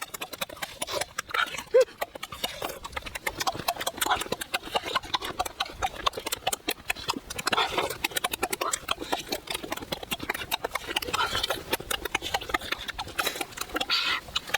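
A person eating with loud mouth sounds: rapid, irregular chewing and smacking clicks.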